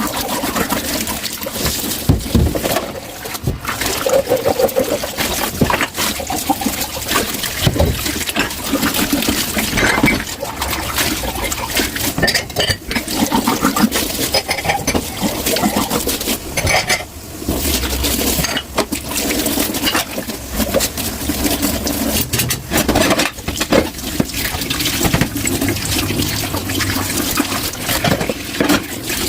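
Tap water running into a kitchen sink while dishes are washed under it, with frequent clinks and knocks of dishes and cutlery against each other and the sink.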